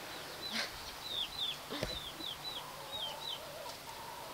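Small birds peeping: a steady run of short, high, falling chirps, several a second, with two soft knocks in the first two seconds.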